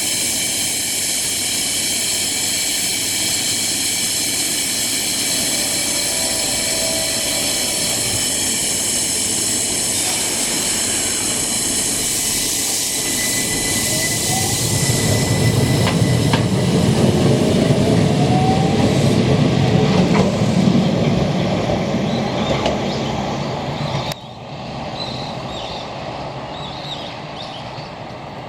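Keihan Keishin Line train running on the rails, with a high, steady wheel squeal at first, then a louder rumble as it comes close about halfway through. The sound drops off suddenly near the end, leaving quieter surroundings with faint chirps.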